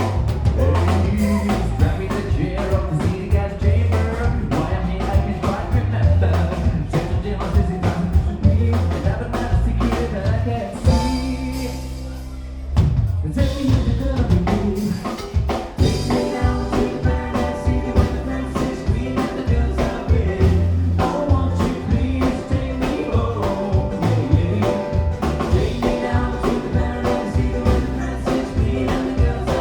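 Live country-bluegrass band playing a rock cover with drums and singing. About eleven seconds in, the band drops out to a held low note for a couple of seconds, then kicks back in.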